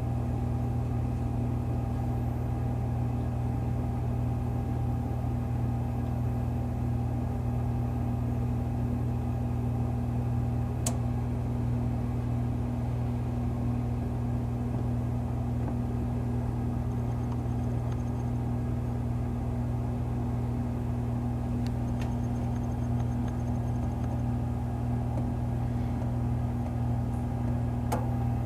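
Toaster oven running while baking a circuit board: a steady electrical hum, with a few faint ticks.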